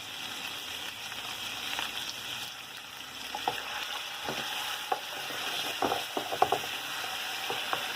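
Shrimp, chicken and pad thai sauce sizzling in an oiled wok over high heat, with a steady frying hiss. A utensil scrapes and clicks against the wok now and then as the food is stirred, most often in the second half.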